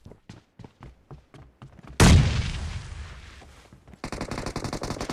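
Video-game gunfire sound effects: scattered light clicks, then a single loud blast about two seconds in that fades away, followed from about four seconds by a rapid burst of automatic fire.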